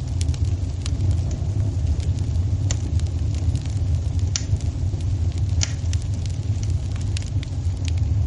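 Wood fire burning in a fireplace: a steady low rumble from the flames with scattered sharp crackles and pops throughout.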